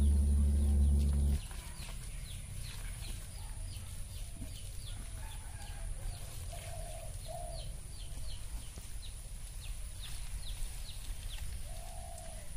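A loud low hum that cuts off about a second and a half in, then birds chirping: a long run of short, falling chirps, two or three a second, with a few lower calls among them.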